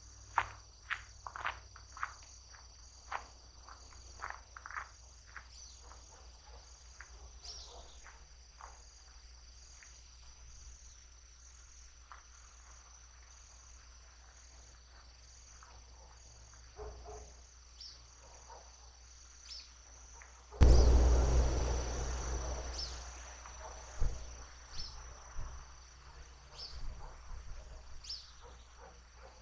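Crickets trilling steadily in a high, pulsing chorus, with quick chirping calls in the first few seconds and a few more scattered later. About two-thirds of the way through, a sudden loud rumble of noise breaks in and fades away over a few seconds.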